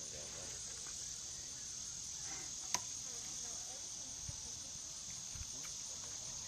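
Steady, high-pitched chorus of insects, with a single sharp click about three seconds in.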